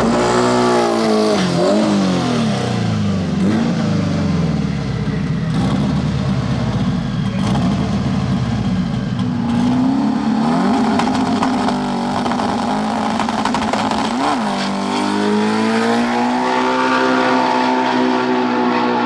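Drag race car engine revving: the revs dip and rise several times, then the engine holds steady at high revs for the last few seconds.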